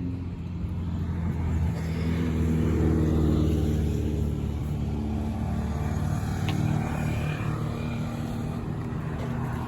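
A motor vehicle engine runs close by, with a steady low hum. Its pitch rises and it grows louder about two to three seconds in, then it settles back.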